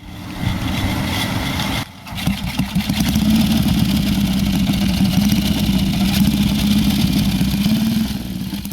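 1937 Rudge race motorcycle engine running steadily. It cuts off briefly about two seconds in, then comes back louder and holds steady.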